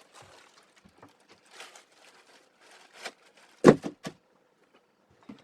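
Plastic bread bag holding hot dog buns rustling and crinkling in short bursts, then a sharp knock about three and a half seconds in and a lighter click just after.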